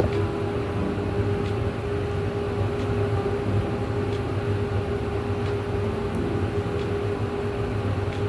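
Steady mechanical hum of an indoor appliance such as a room air conditioner, holding one even pitch, with a few faint light clicks.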